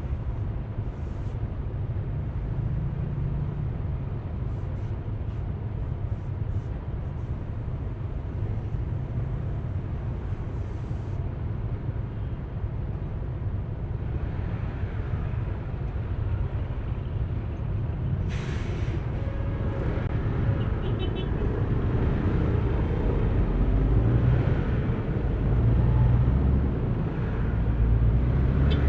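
Yamaha Aerox V3 scooter's single-cylinder 155 cc engine running under way, with road and wind noise around it; engine and road noise grow louder over the second half. A brief hiss sounds about two-thirds through.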